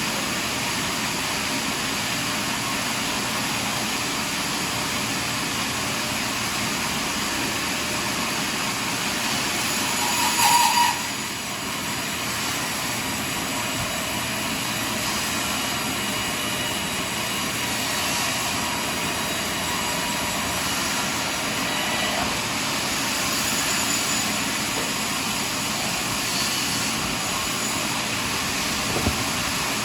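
Sawmill running steadily as it saws through a large log: an even rushing machine noise, with a brief louder whine about ten seconds in and a short knock near the end.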